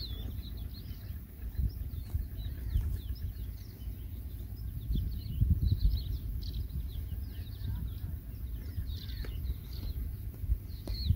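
Small birds chirping over and over, many short quick calls that fall in pitch, over a low rumble.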